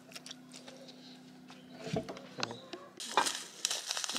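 Quiet light scraping and tapping of a plastic fork mashing tofu on a paper plate; about three seconds in, a plastic seasoning packet crinkles as its seasoning is shaken out over the tofu.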